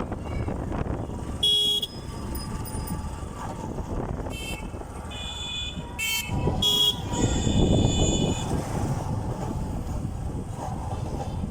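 Vehicle horns tooting about six times in the first eight seconds, the last blast longer. Underneath is the steady running noise of a motorcycle ride on the road.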